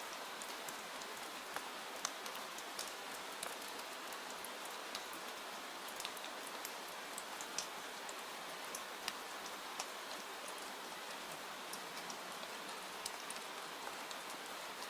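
Steady rain falling, a continuous hiss with individual drops ticking sharply at irregular moments throughout.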